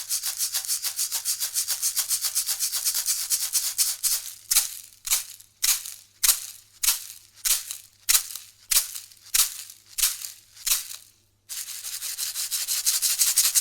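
Shamanic hand rattle shaken in a fast, continuous rattle. About four seconds in it slows to single, evenly spaced shakes, roughly one every 0.6 seconds. It stops briefly near eleven seconds, then the fast shaking resumes. A faint steady hum sits underneath.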